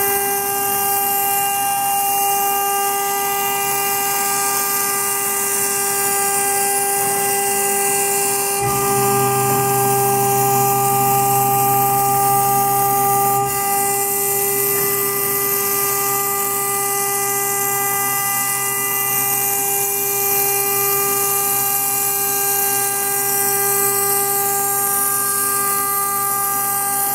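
High-speed spindle of a CNC router running with a steady high-pitched whine and hiss while milling metal. A lower hum joins about nine seconds in and fades back about four seconds later.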